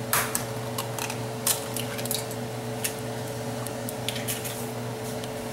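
A second egg cracked and dropped wet into a stainless steel mixing bowl, with scattered light clicks and taps of shell and the wire whisk against the bowl, over a steady low hum.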